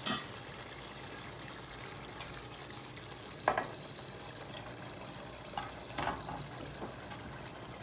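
Curry masala with milk sizzling steadily in a pan, with a few sharp knocks, the loudest about three and a half and six seconds in.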